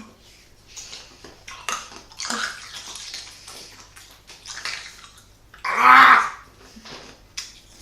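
A person's breathy, hissing exhales through the mouth, then a loud wordless cry about six seconds in.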